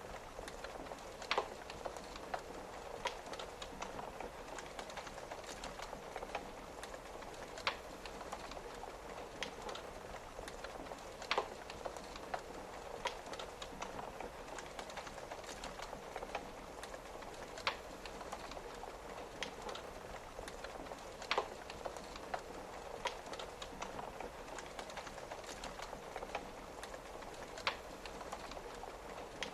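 Wood fire crackling, with sharp irregular pops every second or few, over the steady hiss of rain on a window.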